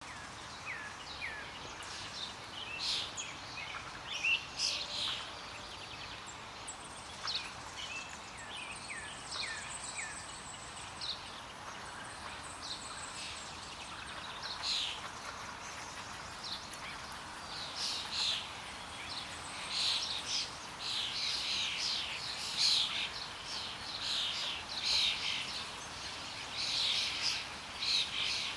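Small birds chirping: many short, high notes in quick succession over a faint steady background hiss, growing busier and more overlapping from about halfway through.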